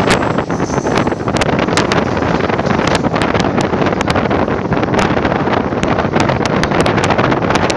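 Moving train: a steady rumble with wind blowing hard on the microphone, and many sharp, irregular clicks and clacks from the wheels on the track.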